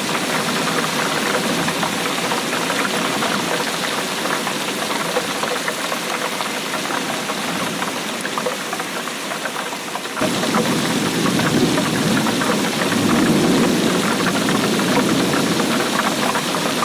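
Steady rainfall, a dense patter of drops. About ten seconds in the sound changes abruptly and becomes fuller and deeper.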